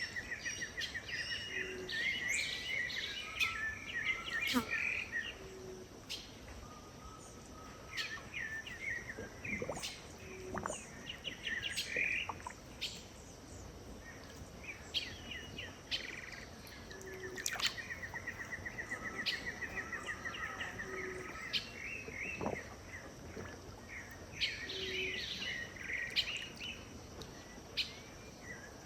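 A mixed chorus of wild birds calling and singing: many short chirps and several fast, rattling trills, the densest near the start and at about two-thirds of the way through. A steady high-pitched hum sits under the calls, with a short low note repeating every few seconds.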